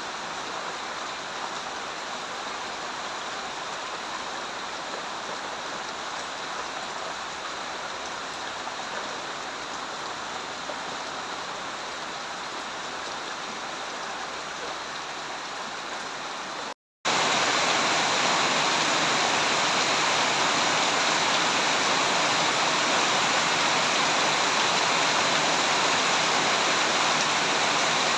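Steady rain. About two-thirds of the way through it cuts out for a split second, then comes back louder and heavier.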